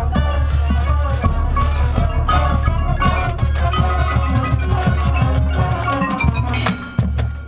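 Marching band playing in full: pitched wind parts over drums and mallet percussion, with a brief drop in level near the end.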